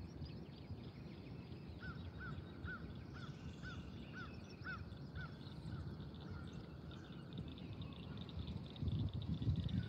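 A bird calling: a run of about nine short, evenly spaced, arching notes over roughly four seconds, about two to three a second, faint over low steady background noise. A low rumble builds near the end.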